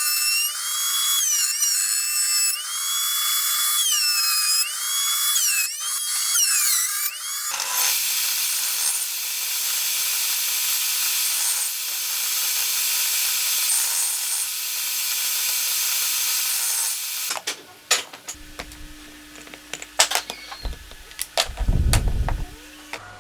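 A handheld power tool working wood. For about the first seven seconds its motor whine rises and falls in pitch as the speed changes. It then runs with a steady noisy sound for about ten seconds before stopping. A run of sharp knocks and clatters follows.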